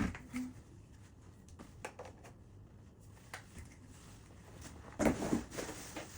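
Quiet handling of a plastic vacuum cleaner and its attachments: a sharp knock right at the start, a few light clicks, and a short clatter with rustling about five seconds in. The vacuum's motor is not running.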